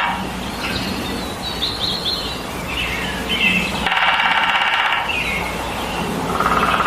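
Woodpecker drumming: a rapid burst of strikes lasting about a second, starting about four seconds in, and a shorter, fainter burst near the end. Short chirps from other birds come in between.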